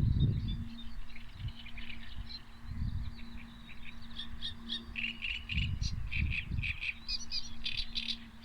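Several small birds chirping and calling in quick, overlapping bursts, busiest in the second half. Bursts of low rumble and a faint steady low hum run underneath.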